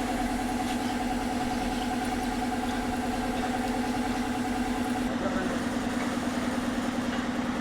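A motor or engine running steadily, giving an even hum with a low drone.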